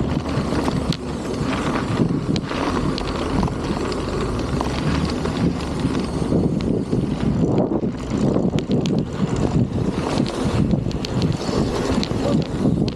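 Strong wind buffeting the microphone of a camera on a moving bicycle: a loud, gusting rumble that rises and falls, with faint crackling from the ride underneath.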